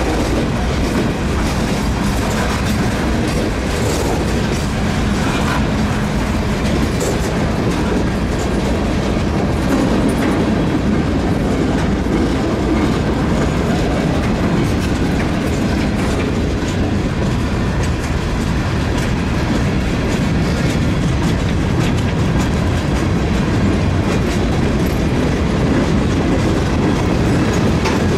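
Freight cars of a mixed freight train rolling past: a steady loud rumble of wheels on rail with a scatter of sharp clicks.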